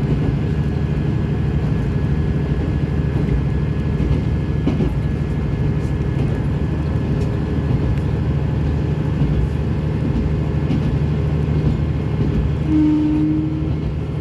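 Diesel railcar running along the line, heard from inside the car: a steady engine drone over wheel and track rumble. A brief steady tone sounds near the end.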